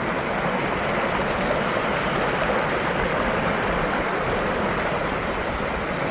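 Small creek's water rushing steadily, a continuous even hiss.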